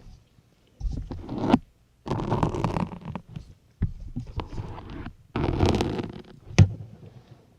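Syringe needles being pushed one after another into a soft sponge: four separate scraping, squeaking pushes of about a second each, then a sharp click near the end.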